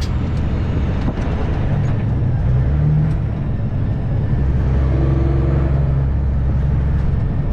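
Semi truck's diesel engine running steadily while driving, heard from inside the cab as a low drone over road noise.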